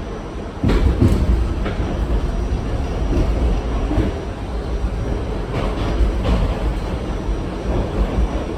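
R68 subway car running on the rails, a steady low rumble with a few sharp clicks. The noise steps up in level a little under a second in.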